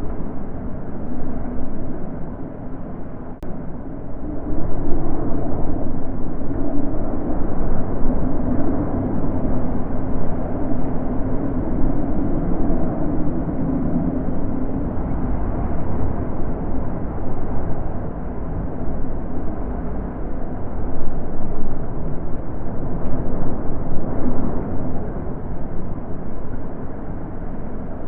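Wind blowing in gusts: a low rushing noise that swells louder about four seconds in and keeps rising and easing.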